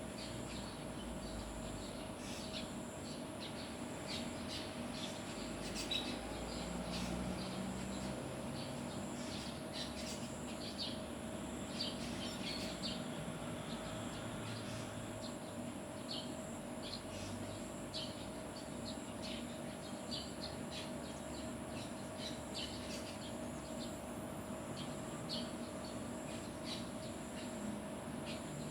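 Birds chirping: many short, high calls scattered throughout, over a faint steady hum.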